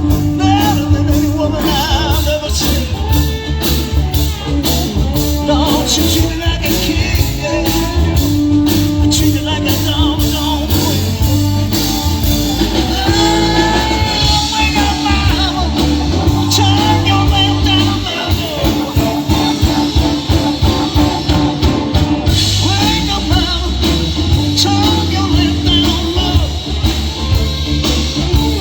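Live rock and roll band playing a song with a singer, guitar, bass and a steady drum beat; the bass drops back for a few seconds after the middle.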